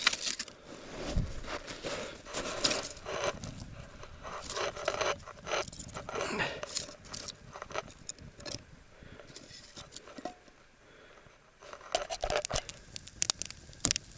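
Irregular crackles, snaps and scraping of twigs and kindling as a small campfire is lit and catches, with a short lull about ten seconds in.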